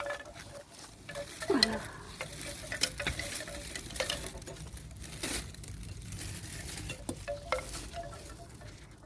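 Crackling and rustling of soil and potato plants being dug up and handled, with many scattered sharp clicks and a brief falling squeak about a second and a half in.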